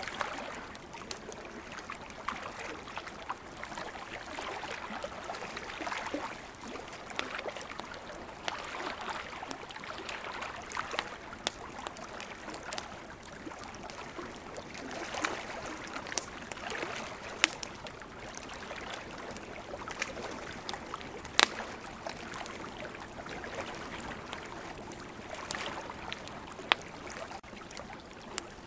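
Wood campfire crackling, with scattered sharp pops, the loudest about two-thirds of the way through. Under it, ocean waves wash ashore in slow swells every few seconds.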